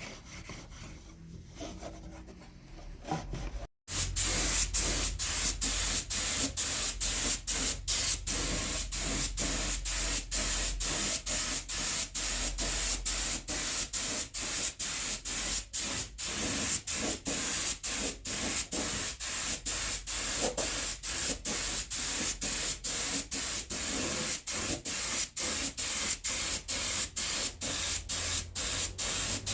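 Spraying of finish: a loud, steady hiss that starts suddenly about four seconds in and is broken by many brief dropouts. Before it there are fainter workshop sounds.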